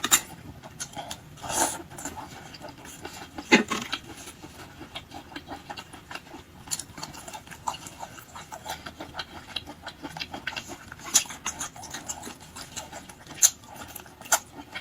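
Close-miked eating of seafood: shells crackling and crunching amid wet chewing and smacking. Sharper cracks stand out at the start, around one and a half and three and a half seconds in, and twice near the end.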